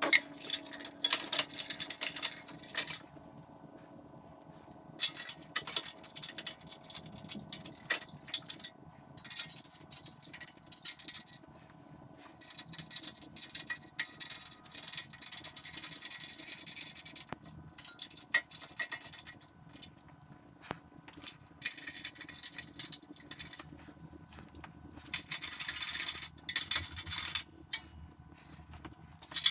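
Irregular light metallic clinks and rattles, scattered throughout, over a faint steady hum.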